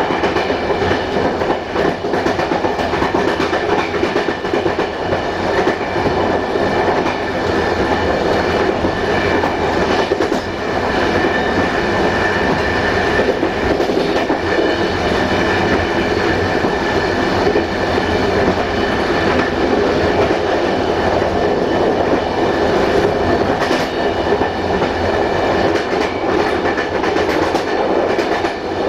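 Passenger train rolling steadily along jointed track, heard from the rear of the train: a loud continuous running noise with the wheels clicking over rail joints and a faint steady high tone.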